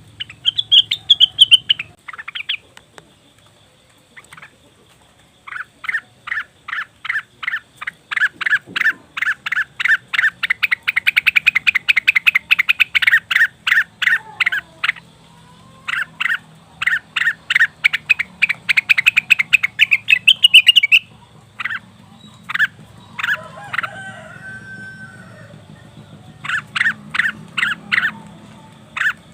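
Cucak wilis calling in long, fast runs of sharp repeated chips. The runs pause and start again, with a few short warbled notes in between; this is a lure call meant to set other birds singing.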